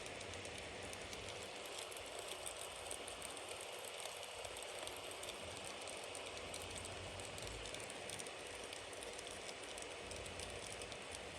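Wood bonfire burning with a steady hiss and a continuous stream of small crackles and pops.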